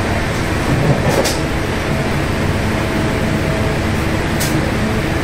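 Steady running noise of a moving passenger train, heard from inside the coach, with two brief sharp ticks.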